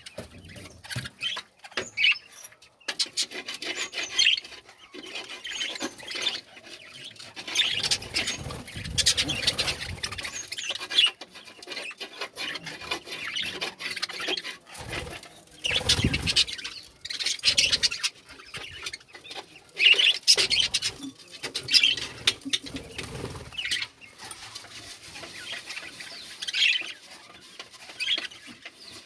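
Irregular scratching and scraping with scattered knocks and rustles, the sound of a budgerigar breeding pot being cleaned out by hand.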